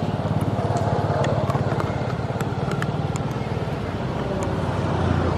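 A small engine running steadily, with a few light clicks over it.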